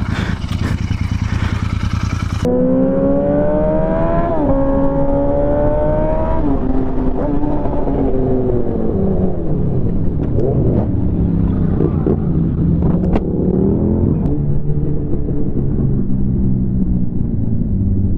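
Motorcycle engine accelerating: its pitch climbs, drops at a gear change about four seconds in, climbs again and then eases off and varies. It follows a couple of seconds of loud wind-like rushing noise.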